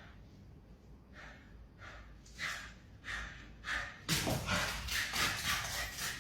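Dog and cat play-fighting: a string of short breathy huffs and snorts about every half second, then a busy stretch of scuffling and thumping from about four seconds in.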